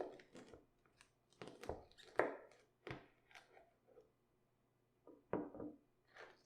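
Irregular crisp knocks and crunches of cabbage being prepared for sauerkraut in a small room, about ten separate sounds with a short lull just after the middle.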